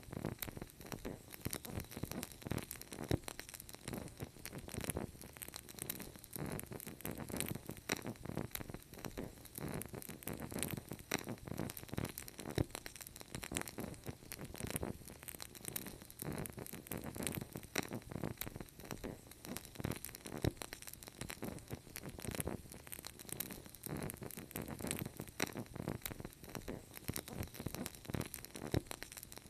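Wood fire crackling: a dense, irregular stream of small pops and snaps over a low, uneven rumble of burning.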